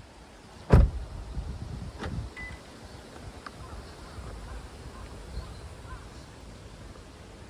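Wind rumbling on the microphone, with a sharp knock about a second in and a softer one near two seconds.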